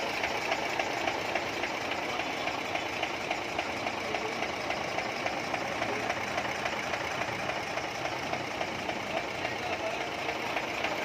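8M22 engine idling steadily with a fast, even ticking clatter, running after a no-start fault was fixed.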